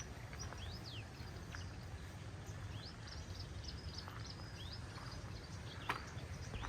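Small birds chirping again and again in quick high notes over a steady low rumble, with one sharp knock near the end.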